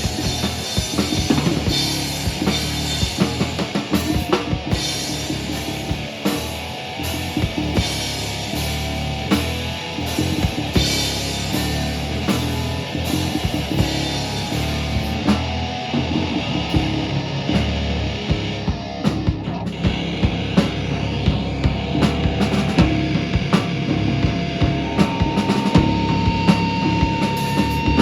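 Live rock band playing loud, with a drum kit hitting hard and fast over the bass and guitars. A single high note is held through the last few seconds.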